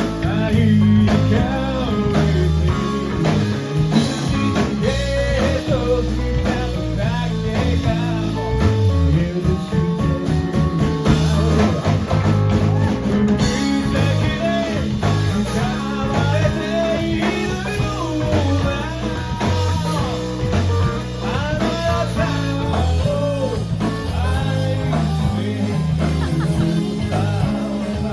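Live rock band playing: a singer over electric guitar and a steady bass line.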